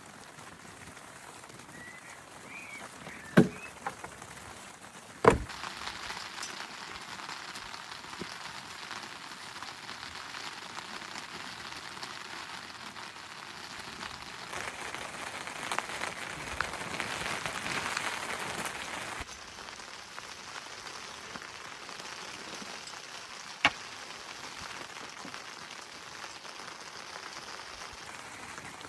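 Steady rain falling, with a heavier stretch in the middle and a few sharp knocks.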